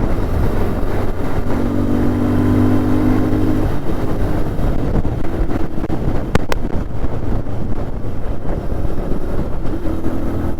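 Motorcycle engine running at a steady pitch, turning into a rougher, uneven rumble after about four seconds.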